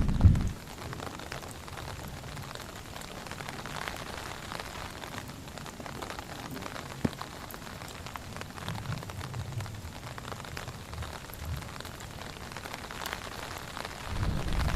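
Rain falling steadily, with many individual drops ticking against a surface. A brief loud low rumble dies away right at the start, and one sharper drop or tap stands out about seven seconds in.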